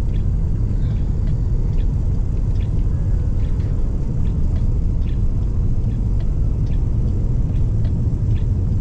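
Steady low rumble of a car driving, with faint short ticks now and then.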